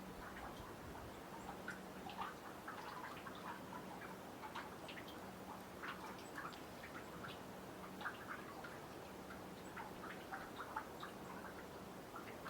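Meltwater from snow dripping off a boardwalk into a pond: many small, irregular drips and plinks, several a second.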